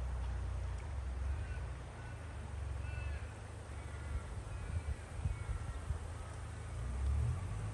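Flooded river running in a steady rush, with wind buffeting the microphone in a heavy, uneven rumble, and birds calling in short, repeated calls over it.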